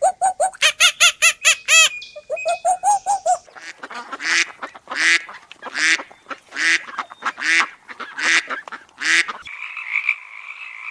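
A sequence of animal calls: rapid pitched calls at first, then about seven loud calls evenly spaced less than a second apart, then a steady high-pitched chorus that starts about nine and a half seconds in.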